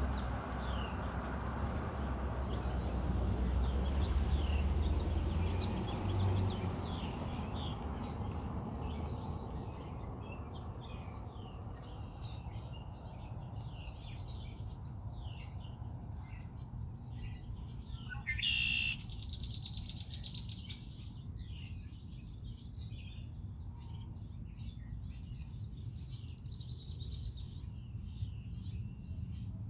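Red-winged blackbirds calling: many short chirps throughout, with one louder, buzzy call about two-thirds of the way through. A low rumble fades out over the first several seconds.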